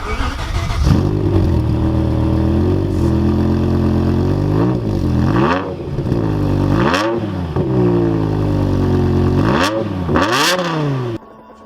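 BMW M5's V10 engine revving, its pitch climbing and dropping back several times, then cutting off suddenly near the end.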